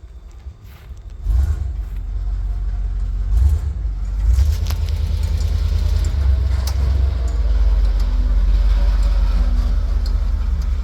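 A 1994 boom truck's engine rumbling low. It comes in suddenly about a second in and then runs on steadily.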